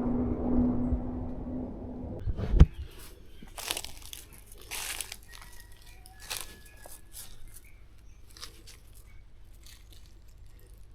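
A steady rushing noise with a low hum that stops about two seconds in, then one sharp snap, followed by intermittent crunching and rustling in dry leaves and brush.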